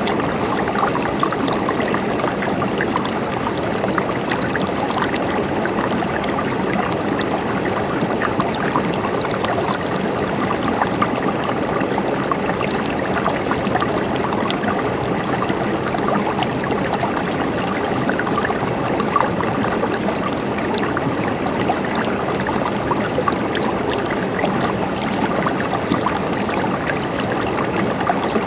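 A stream running and trickling steadily, with many small splashes.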